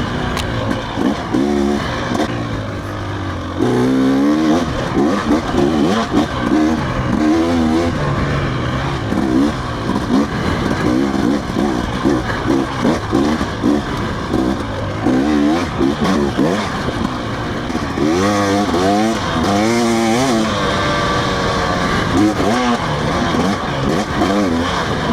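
Dirt bike engine revving up and down over and over while riding a trail; its pitch climbs with each throttle opening and drops back, with the strongest climbs about four seconds in and again near the end.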